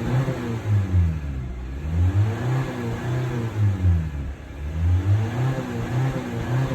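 2020 Honda Civic engine being revved repeatedly, its pitch climbing and falling back again about every two to three seconds.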